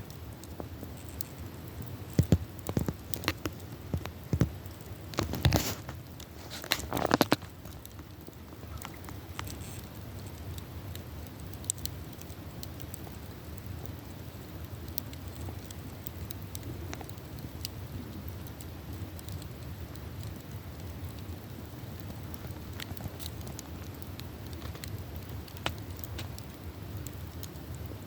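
Campfire burning, the wood crackling and popping: a run of sharp snaps and pops in the first several seconds, loudest around six to seven seconds in, then a steady low hiss with only occasional faint snaps.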